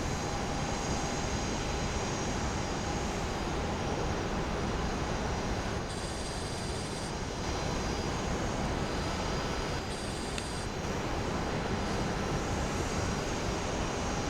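Jet engines of a Boeing 777-200ER, General Electric GE90s, running steadily: a constant rush of noise with a thin high whine on top.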